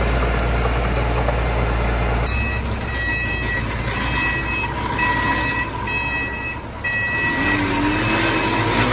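Heavy diesel machinery running with a steady low rumble. From about two seconds in, a vehicle's reverse warning alarm beeps roughly once a second.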